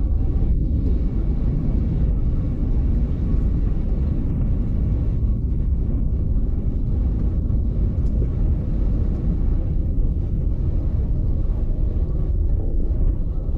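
Steady low rumble of a train in motion, heard from aboard a carriage, with no clear rhythm or single standout event.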